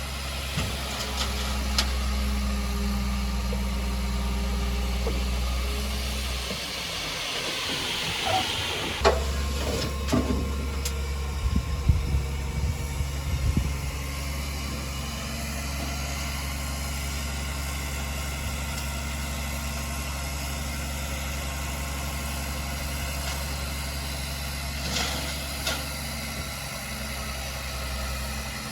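Diesel engine of heavy earthmoving machinery running steadily. Partway through the engine note drops away under a rising hiss, then a run of sharp metallic clanks and knocks follows before the steady running returns.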